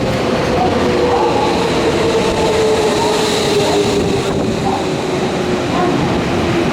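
Nankai electric commuter train at a station platform, its motor whine falling slowly in pitch over the running and rail noise as the train brakes.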